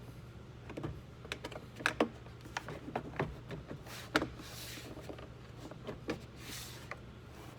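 Irregular clicks and knocks of plastic and metal, with a few short scrapes, as a rear door lock actuator is worked into place inside a Hyundai Tucson's door. The sharpest knock comes about four seconds in.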